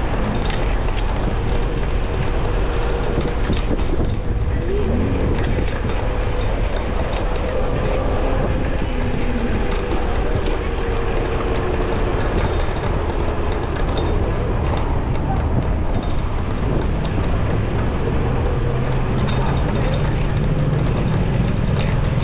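Steady rush of wind on the microphone and street traffic noise while riding an electric bicycle along city roads, with a faint steady tone underneath.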